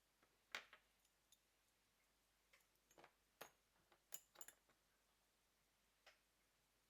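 A dozen or so faint, sharp metallic clicks at irregular intervals: small watchmaker's tools touching a vintage Venus 175 chronograph movement as it is taken apart.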